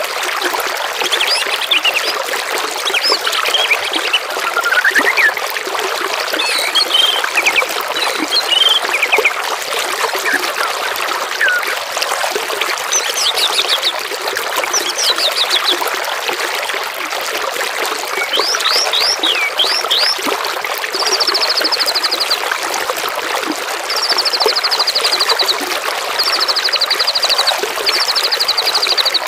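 Trickling, flowing water with several songbirds singing over it in short varied phrases. In the second half, one bird repeats a fast, high trill four times.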